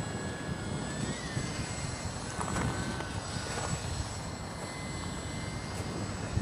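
High thin whine of the E-flite Micro Beast's small electric motor and propeller in flight, its pitch sliding slightly up and down with throttle, over gusty wind buffeting the microphone.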